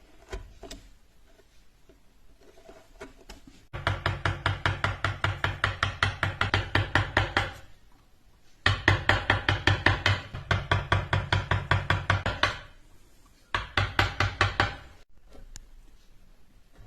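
Rapid, evenly paced knocks, about five a second, each with a short ring, in three runs with brief pauses between them. These are typical of a mallet driving a carving chisel into wood.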